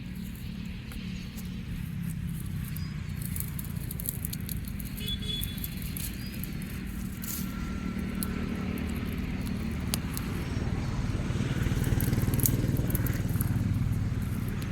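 A motor vehicle engine running steadily with a low hum that grows slightly louder near the end, with scattered sharp crackling clicks over it.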